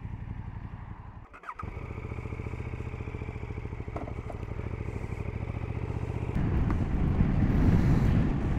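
KTM motorcycle engine running with an even throb, cut off briefly about a second and a half in. It then gets steadily louder as the bike gathers speed, with a louder jump about six seconds in.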